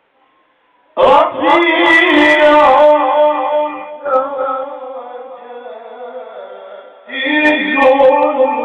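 A man reciting the Quran in melodic tajweed style, drawing out long, ornamented held notes. The phrase starts about a second in and fades slowly, and a new phrase begins near the end.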